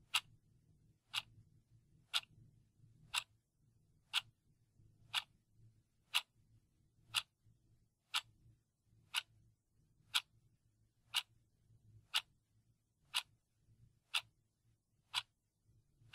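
Timer clock ticking steadily, one sharp tick each second.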